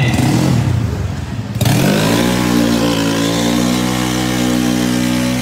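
Open-exhaust Yamaha Mio drag scooter's big-bore (66 mm piston) single-cylinder engine revving. About a second and a half in it climbs quickly and is then held at a steady high rev.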